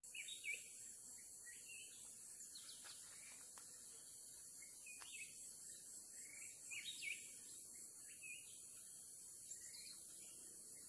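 Faint forest birdsong: small birds chirping in short, scattered notes over a steady high hiss.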